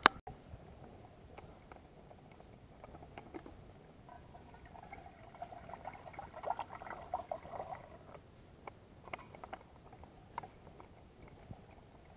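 Faint scattered clicks and crackles, busiest in the middle, after one sharp click right at the start.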